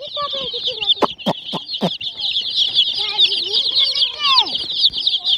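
A crowd of chicks peeping nonstop, many high, short chirps overlapping, with lower clucking calls among them. Four sharp taps come about a second in.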